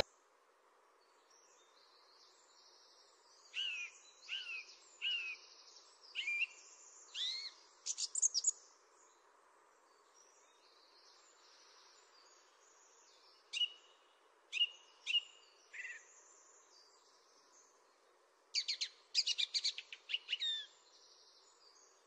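A bird singing in three bouts of quick, high chirps that slide downward in pitch, with pauses of several seconds between bouts, over a faint steady background hiss.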